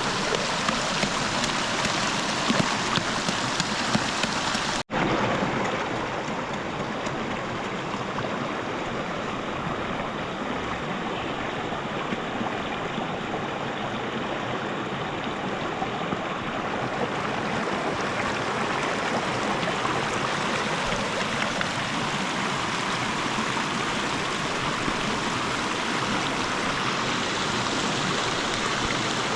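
Steady rushing and splashing of flowing river water, broken by a momentary gap about five seconds in.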